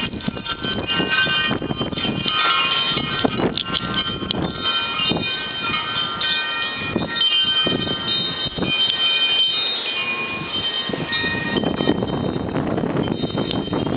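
Wind chimes ringing wildly, many overlapping tones sounding and dying away, over the rush of strong, gusty wind.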